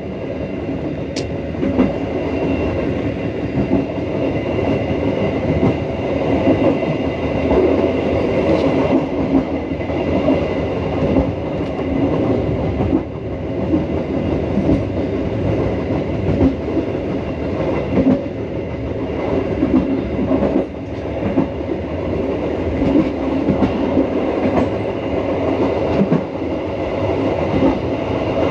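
Passenger train carriage of the Dhoho local train running at speed: a steady rumble of wheels on track, with faint clicks now and then over rail joints, heard from inside the carriage.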